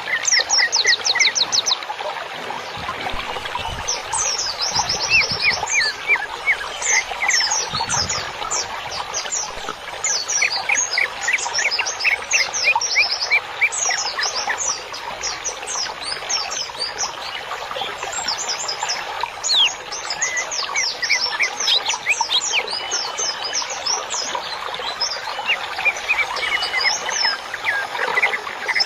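Songbirds chirping and singing continuously, with many rapid series of short, high, quick notes over a steady hiss.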